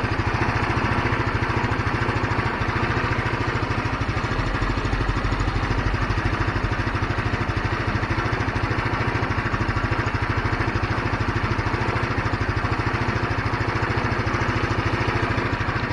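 GY6 150cc four-stroke scooter engine idling steadily at an even RPM, holding its idle rather than dying out now that the clogged carburetor main jet has been cleaned.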